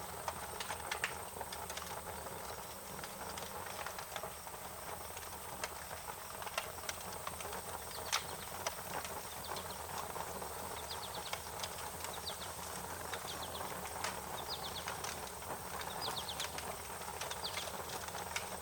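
Wood fire crackling, with irregular sharp pops and snaps over a steady hiss. In the second half, short high chirps come in quick groups of three or four.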